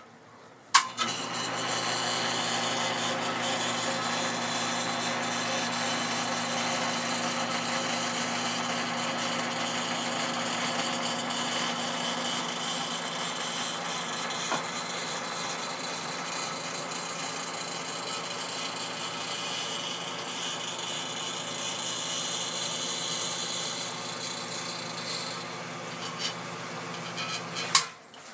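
Everbilt electric sump pump switching on with a click about a second in, running steadily with a motor hum over a rushing hiss while it pumps out the pit, then clicking off just before the end.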